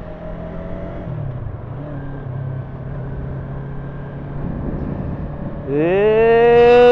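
Yamaha YZF-R3 321 cc parallel-twin engine running steadily while the bike cruises, heard over road and wind noise, with a slight dip in its note about a second in. Near the end a much louder note rises in pitch and then holds.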